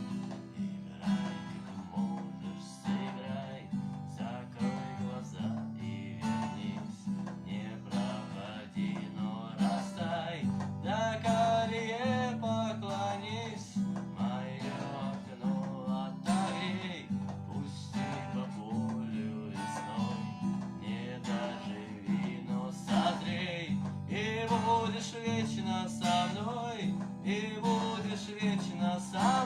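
Music: a strummed acoustic guitar carries the chords, and from about ten seconds in a wavering lead melody line rises above it.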